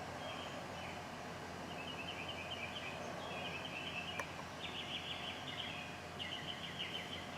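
Faint birds chirping in repeated short trills, over a steady low background hum.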